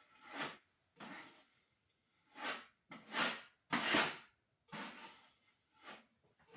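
Drywall knife scraping joint compound across a taped wall patch in repeated smoothing strokes, about one a second.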